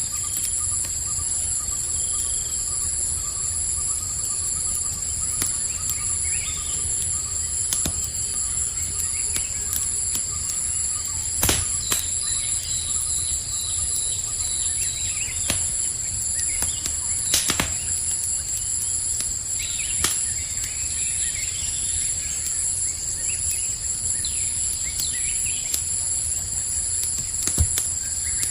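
Campfire burning with a low rumble and scattered sharp crackles and pops, a few louder ones standing out, over a steady high-pitched chorus of night insects.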